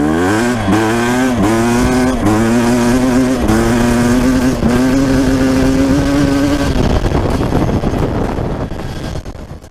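Suzuki RM250 two-stroke dirt bike engine with an FMF Gold Series exhaust, accelerating hard from a standing start: the engine note climbs and drops back with each of several quick upshifts, holds at a steady pitch, then fades away near the end.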